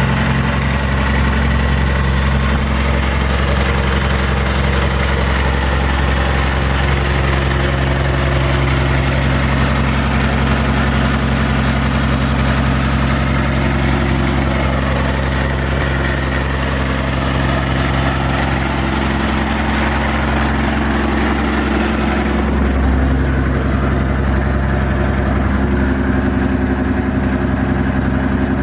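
BMW M51D25 2.5-litre straight-six turbodiesel idling steadily.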